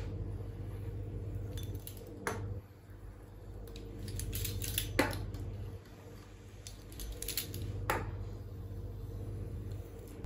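Kitchen dishes and utensils clinking now and then, four sharp clinks standing out among lighter taps, over a steady low hum that swells and fades.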